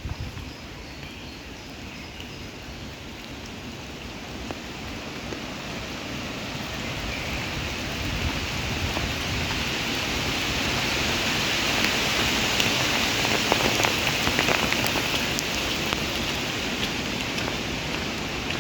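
Rain falling steadily, a dense patter of drops that grows louder towards the middle and eases slightly near the end.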